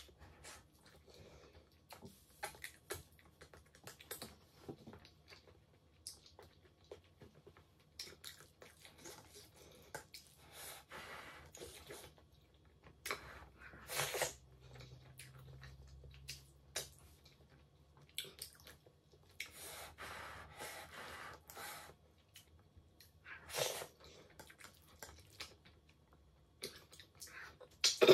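Close-miked chewing and mouth sounds of a person eating rice and pasta with stew by hand, coming in irregular bursts. A few are louder, the sharpest right at the end.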